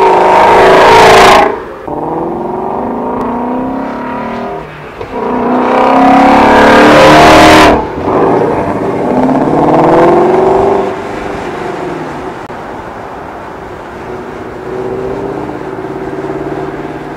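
Ford Shelby GT350's 5.2-litre flat-plane-crank V8 accelerating hard, its pitch climbing with each pull. It is loudest at the very start and again around six to seven seconds in, rises once more, then settles to a quieter, steadier drone.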